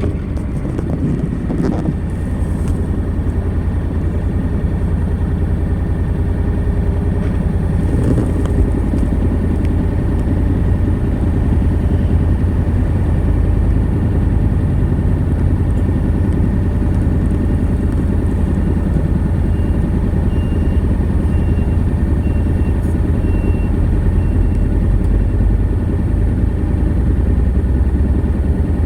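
Honda NC700X's 670 cc parallel-twin engine running steadily through its stock exhaust, a low, even sound with no revving.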